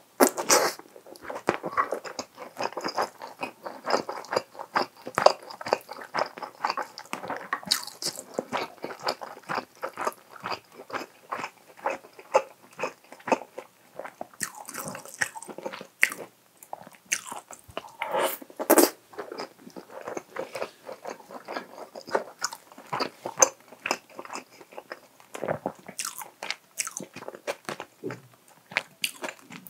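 Close-miked chewing of spoonfuls of a soy-sauced chicken and egg rice bowl: wet, irregular mouth clicks, smacks and soft crunches that go on without a break, with a few sharper, louder bites.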